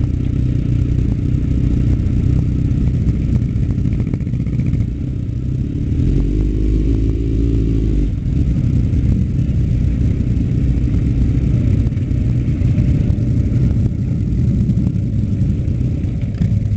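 Suzuki GSX-R sport bike's engine running under way, with a change in engine note about six to eight seconds in.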